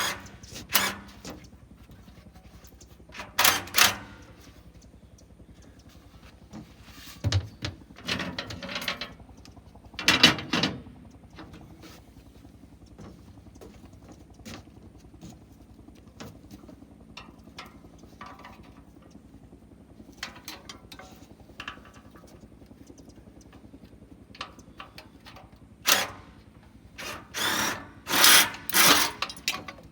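Tool noise while working on the exhaust: a handful of short clattering bursts, each a fraction of a second to about a second long and bunched near the start and near the end, over a low steady hum.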